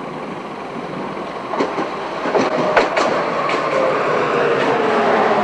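Budapest tram running past, its wheels giving several sharp clacks over rail joints and crossing frogs, with a tone that slowly falls in pitch over the last couple of seconds as the running noise grows louder.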